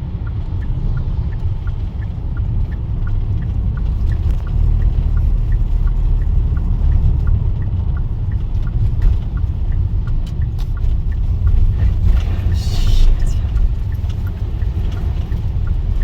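Car interior road noise while driving: a steady low rumble of engine and tyres, with a faint regular ticking about twice a second and a brief hiss about twelve seconds in.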